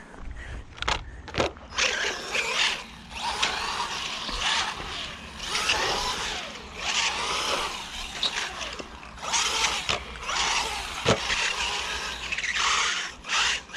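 Bezgar HM124 1/12-scale brushless RC car being driven hard, its electric motor whining up and down in pitch in repeated bursts of acceleration.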